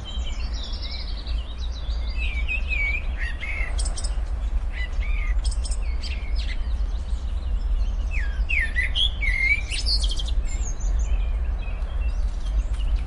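Several birds chirping and calling in short notes that slide up and down, over a steady low rumble.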